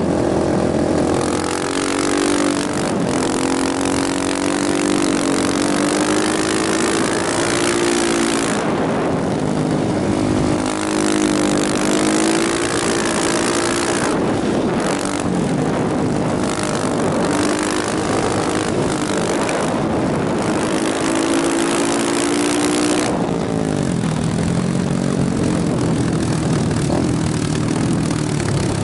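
KTM motorcycle engine running under way, its pitch rising and falling as the revs change, over a steady rush of wind noise.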